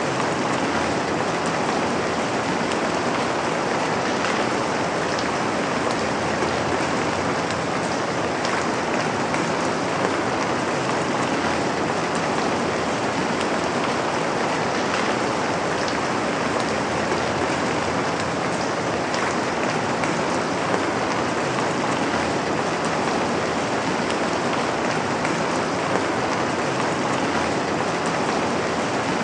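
Steady rain falling on a surface, an even hiss with scattered individual drop taps and no change in intensity.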